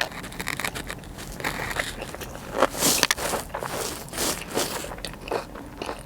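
Close-up chewing and crunching of a bite of sushi roll topped with crunchy tempura flakes, with irregular crackles.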